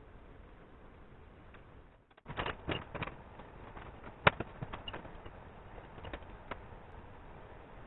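Scattered sharp clicks and clinks of tools and metal parts being handled, starting about two seconds in, with the loudest knock about four seconds in.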